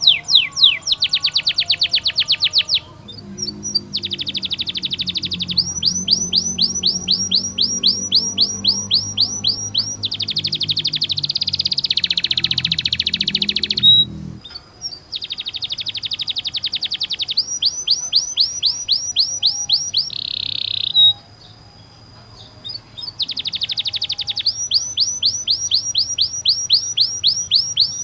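Domestic canary singing long rolls of rapid repeated notes and runs of fast downward-sweeping chirps, broken by short pauses about 3, 14 and 21 seconds in.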